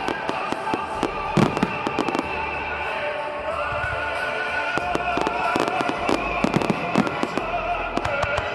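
Fireworks going off in many sharp bangs and crackles, heaviest a little past the middle, over music with sustained tones playing alongside.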